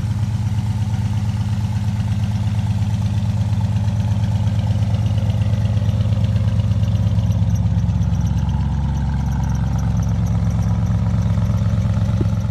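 1979 Ford F-150's carbureted engine idling steadily.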